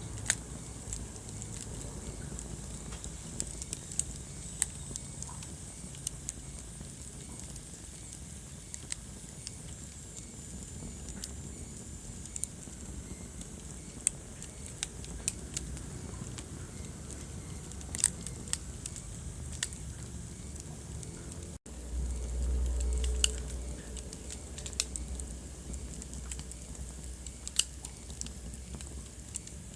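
Wood fire crackling in a fireplace: irregular sharp pops and snaps over a steady low rumble of flames. About two-thirds of the way in, the sound drops out for an instant, then the low rumble is louder for a couple of seconds.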